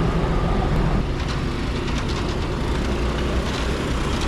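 Train rumbling slowly along the track, with a steady low rumble and a few light clicks.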